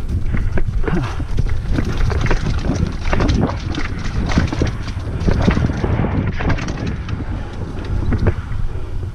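Mountain bike riding over rough trail, with frequent rattles and knocks from the bike over a constant low wind rumble on the bike-mounted camera's microphone.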